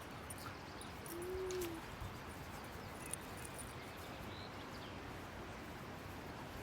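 Steady outdoor wind noise, with one short low-pitched animal call, rising then falling, about a second in.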